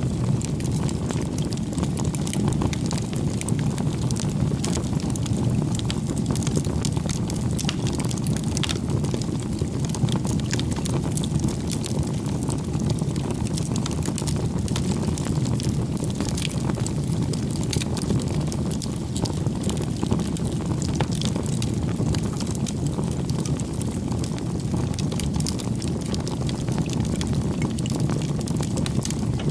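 Campfire burning with a steady low rumble and frequent small crackles and pops of burning wood.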